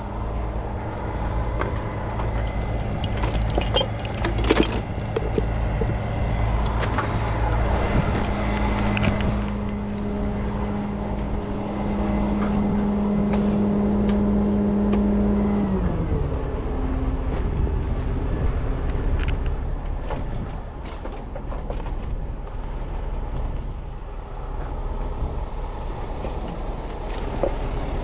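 Heavy tow truck's engine running steadily at raised speed, with sharp metal clanks in the first few seconds. About sixteen seconds in, the engine speed drops and it settles to a lower, idling note.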